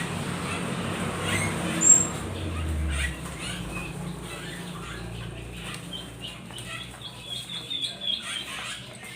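Small birds chirping, a run of short quick calls in the second half, after a few seconds of low rumbling noise with a single high whistle.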